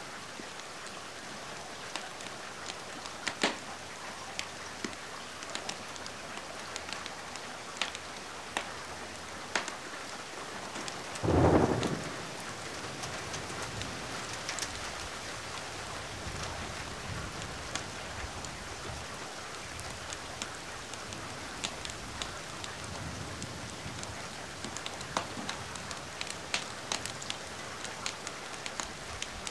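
Steady rain hiss layered with scattered sharp crackles from a wood fire. About eleven seconds in comes a short loud boom, with a low rumble after it, like a thunderclap.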